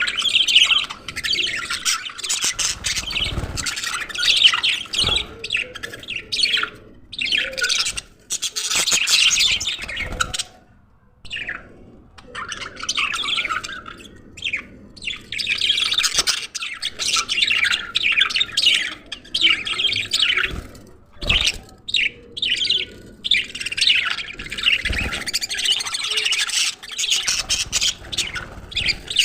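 A group of budgerigars chattering and chirping, with a few short breaks in the calling.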